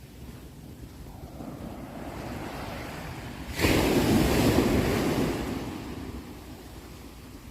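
Ocean surf: a low rumble of water, then a wave breaks suddenly about halfway through and washes out, fading over the next two seconds.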